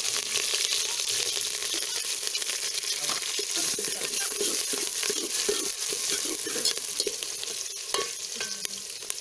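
Chopped onions and green chillies sizzling in hot oil in a metal pot, with a metal spoon stirring and scraping against the pot from about three seconds in.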